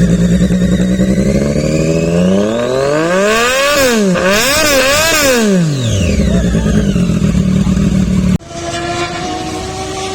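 Motorcycle engine idling, then revved up and down twice in quick blips before settling back to idle. About eight seconds in, the sound cuts abruptly to a quieter engine running with a slowly rising pitch.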